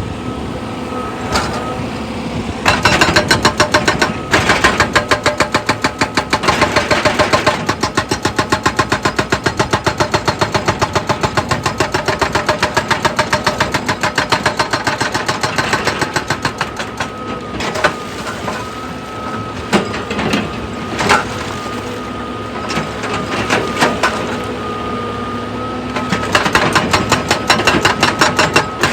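Heavy machinery: an excavator-type engine running steadily, with long runs of rapid, evenly spaced pounding that start about three seconds in, stop for a while past the middle, and return near the end.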